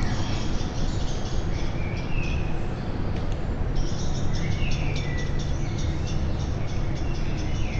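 Songbirds chirping and trilling in quick overlapping phrases, over a steady low rumble.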